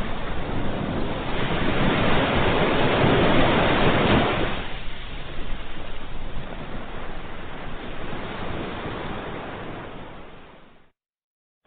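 Ocean surf: a wave swells to a peak about three to four seconds in, then washes out and fades away. Near the end the sound cuts to dead silence for under a second.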